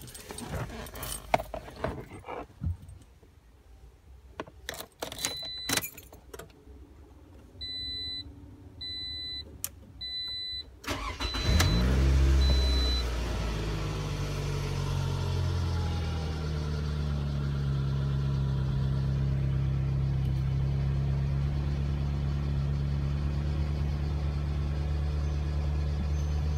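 A few clicks and knocks, then three high beeps and two shorter ones, as the 2008 Toyota RAV4's engine cranks and starts about eleven seconds in. It then settles into a steady idle.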